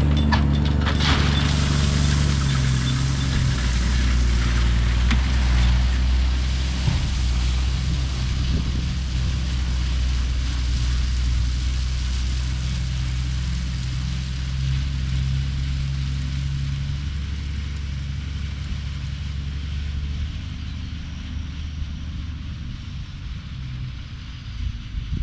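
Heavy dump truck's diesel engine running with a steady low drone that slowly fades.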